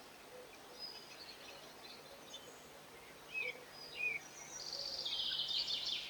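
Garden songbirds chirping with short, scattered high notes, then a fast, dense twittering run from about four and a half seconds in that is the loudest part.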